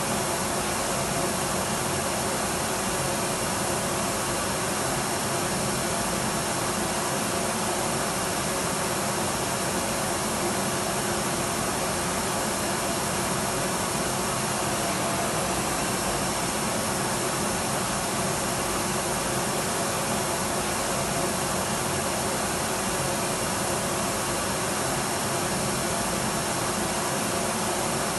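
Electric vacuum cleaner running steadily: an even, unchanging motor whir and rush of air with faint steady hum tones, played as white noise.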